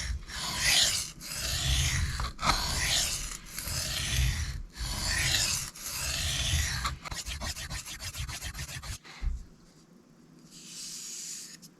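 Steel knife blade stroked back and forth across a sharpening stone, grinding the heel of the edge in long scraping strokes about one a second. Near the end come a quick run of short strokes and then a brief fainter scrape.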